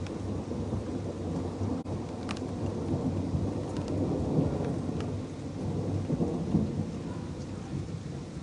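Thunder rumbling on without a break, swelling and then easing, over steady rain, with a few sharp ticks.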